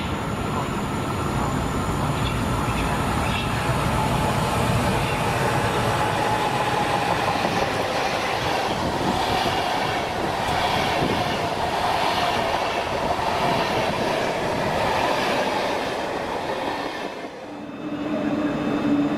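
A train running through the station with a continuous rumble of wheels on the rails and a whine that falls slightly in pitch through the middle. The sound drops away suddenly near the end, and a steady lower tone starts.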